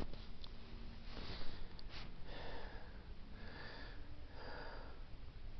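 A man breathing close to the microphone: about four soft breaths roughly a second apart, after a tiring climb.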